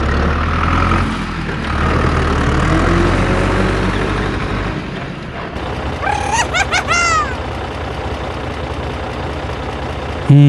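A heavy vehicle engine running low and steady, louder for the first four or five seconds and then fainter. A brief burst of high-pitched, squeaky falling cartoon-voice sounds comes about six seconds in.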